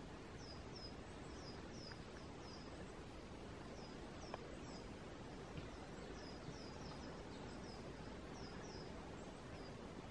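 A small bird calling over and over with short, high notes that fall in pitch, often in pairs, over a steady faint outdoor hiss.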